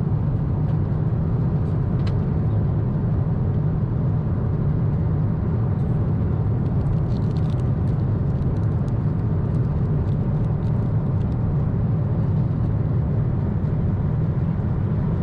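Boeing 747-8 cabin noise in cruise: a steady low rumble of airflow and engines.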